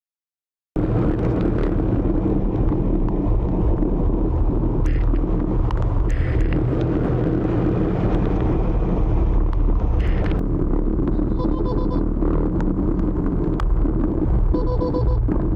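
Motor scooter riding through city traffic: steady engine and road rumble, heavy in the low end, starting abruptly just under a second in. Two short beeping tones sound over it, one past the middle and one near the end.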